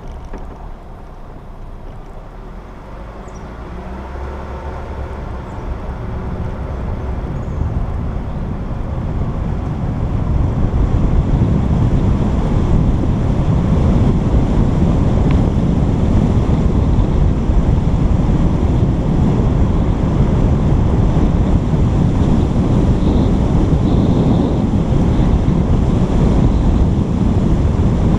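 Wind buffeting a GoPro's microphone: a loud, rumbling roar of noise that builds over the first ten seconds or so and then holds steady.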